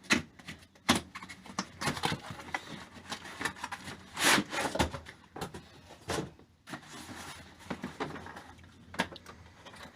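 Packaging of an air jack hammer kit being opened and handled: irregular knocks, rubs and scrapes, the sharpest knocks right at the start and about a second in, and a longer scrape about four seconds in.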